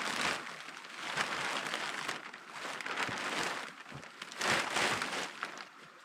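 Clear plastic sheeting crinkling as it is handled and tucked in, in several rustling bursts.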